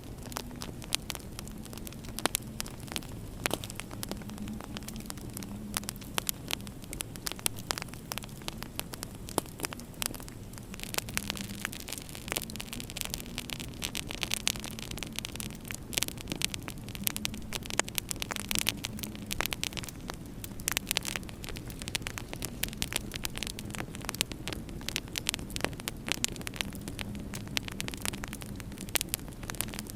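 Wood fire crackling in a fireplace: dense, irregular pops and snaps over a low steady hum and a soft hiss that swells and fades a couple of times.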